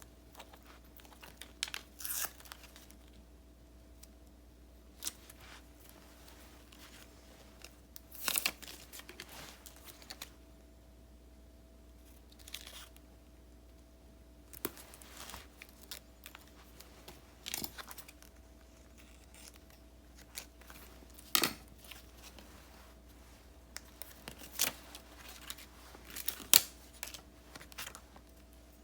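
Paper and sticker sheets being handled for diary decorating: intermittent rustling, peeling and crinkling, with a few sharp taps or snaps spread through, the loudest near the end. A faint steady hum runs underneath.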